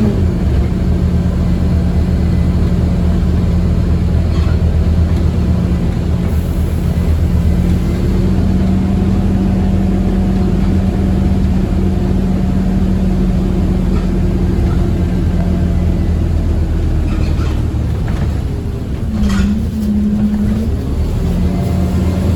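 Scania OmniCity single-deck bus engine running steadily under way, heard from inside the bus. Its drone holds one pitch and briefly drops and shifts pitch about three quarters of the way through, as with a gear change.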